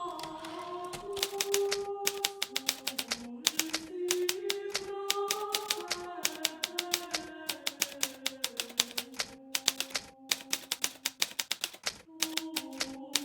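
Hermes Baby portable typewriter being typed on: rapid key strikes in runs, broken by brief pauses. Under it, soft background music of slow, held notes.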